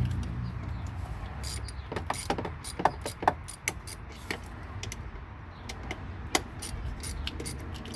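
Hand tools tightening the mounting bolts of a new throttle body: irregular metallic clicks and clinks, thickest in the middle, over a low steady rumble.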